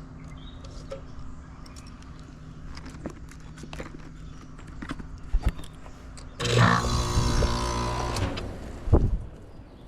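Clicks and knocks of hands working at an air-conditioner condenser's contactor, then a loud electrical buzz with hiss for about two seconds as the contactor is pushed in and the unit is briefly energised to check the new condenser fan motor's rotation, cutting off abruptly. A single thump follows near the end.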